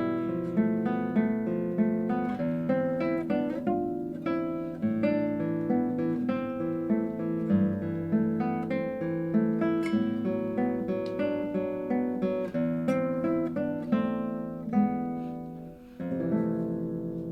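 Solo classical guitar playing a run of plucked notes. About sixteen seconds in the notes stop briefly, then a chord is struck and left ringing as it fades.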